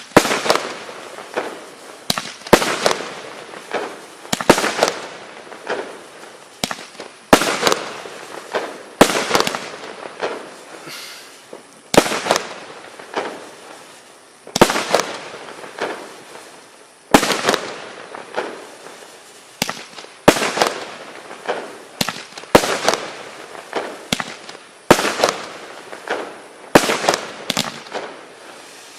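A 16-shot consumer firework cake firing shot after shot, roughly every two seconds, each a sharp bang followed by a crackling tail.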